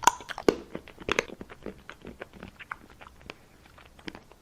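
Close-miked ASMR eating sounds: crisp biting, crunching and wet chewing of food made to look like toothpaste, a dense run of sharp clicks that thins out near the end.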